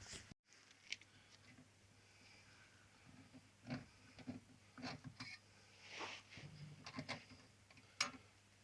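Faint scattered clicks and knocks over a steady low hum, the sharpest about a second in and near the end.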